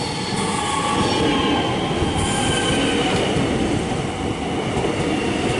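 Melbourne suburban electric train rolling along the platform as it pulls in, a steady rumble of wheels on rail with faint high-pitched wheel squeal.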